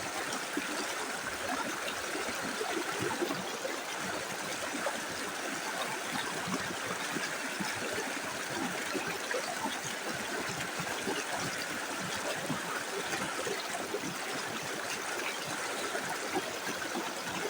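Small river running steadily over rocks: a continuous rushing wash with fine gurgles and splashes.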